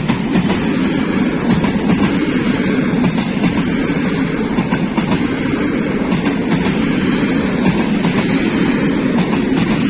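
Freight train wagons rolling past at speed: a steady rumble of wheels on rail with light irregular clicking over the track.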